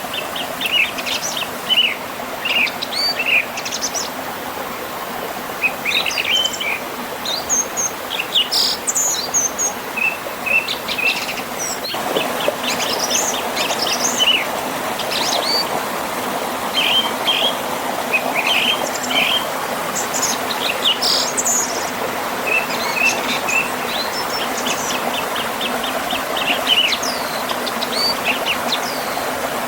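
Songbirds chirping and trilling over the steady rush of a river flowing past a small waterfall.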